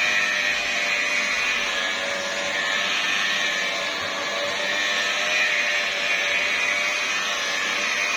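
Electric car-paint polishing machine running steadily with its pad on the bonnet's paint, a continuous whirring hiss.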